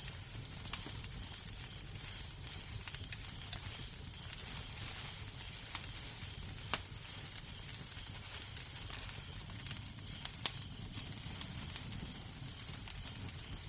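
Crackling wood fire in a fireplace: a steady hiss over a low rumble, broken by sharp pops and snaps every second or few.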